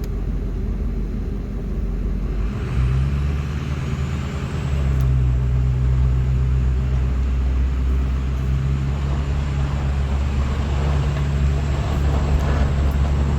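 Plow truck's engine running, revving up about two and a half seconds in and then pulling steadily under load in four-wheel drive as the truck pushes snow with the plow.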